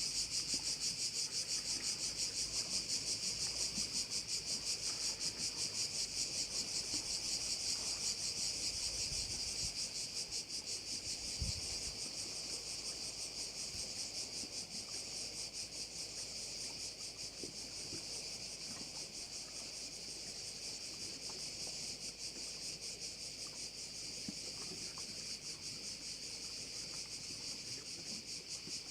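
A chorus of cicadas singing in a dense, high, buzzing drone. For the first few seconds it pulses quickly and evenly, then it settles to a steadier, slightly softer buzz.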